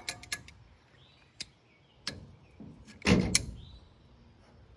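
Metal handling noises from small-engine flywheels and pliers being moved about: a few light clicks, then a heavy clunk about three seconds in, followed by a sharp click.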